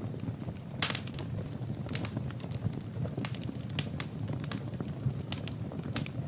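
Wood fire in a fireplace crackling, with sharp, irregular pops over a low steady rumble of the flames; a louder pop comes about a second in.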